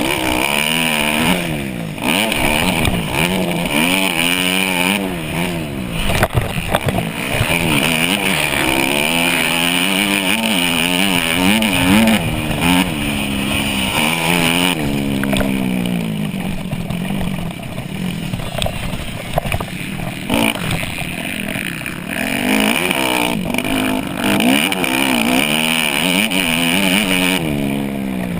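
Dirt bike engine being ridden hard in a race, revving up and dropping back over and over as the rider works the throttle and gears.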